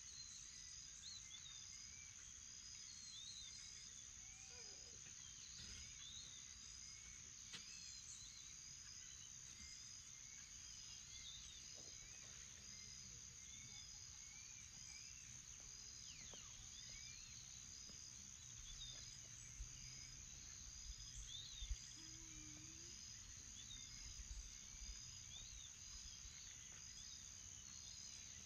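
Faint dawn ambience of insects and birds. A steady high-pitched insect drone runs throughout, with a short chirp repeating a little more than once a second and scattered faint bird calls over it. A few low rumbles come about two-thirds of the way through.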